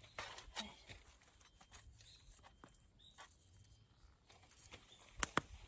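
Small wood campfire being built up: scattered faint crackles and ticks, with two sharp cracks close together near the end.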